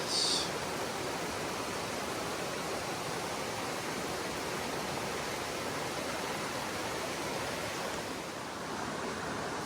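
Mountain stream water flowing in a steady rush, with a brief high-pitched chirp right at the start.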